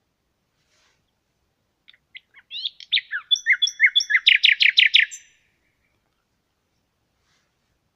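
A songbird sings one song phrase about two seconds in: a few scattered introductory notes, then a run of repeated two-part notes, ending in a quick series of sharp down-sweeping notes, lasting about three seconds.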